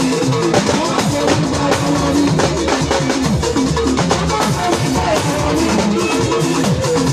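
Gospel band music with a drum kit keeping a steady beat under sustained melodic lines.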